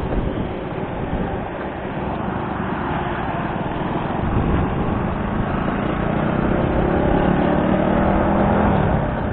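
Small motorcycle engine running under way, its note building and climbing from about four seconds in as the bike pulls away from a turn, over a steady rush of wind on the helmet-mounted microphone.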